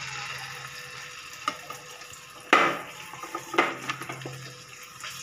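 Marinated chicken pieces frying in hot oil in a nonstick pan: a steady sizzle that flares up loudly twice, about two and a half and three and a half seconds in, as more pieces go into the oil.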